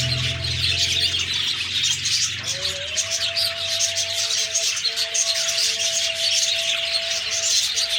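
Budgerigars chirping and chattering without a break, many calls overlapping.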